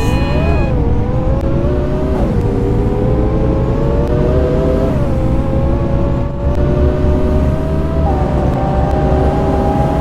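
Scania K230UB city bus with a Voith automatic gearbox pulling away and accelerating. The engine note climbs and drops back at each upshift, three times in the first five seconds, then steps up again near the end.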